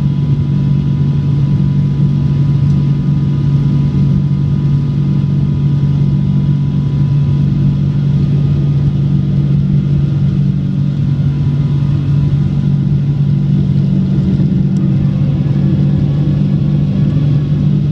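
Steady loud drone of a Boeing airliner's Rolls-Royce jet engines and airflow, heard from inside the passenger cabin, holding a constant level with a deep hum underneath.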